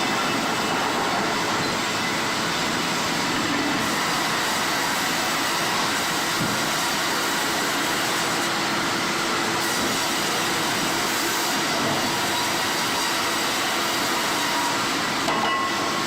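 Sawmill machinery running steadily: a dense, even mechanical noise with a few faint steady tones.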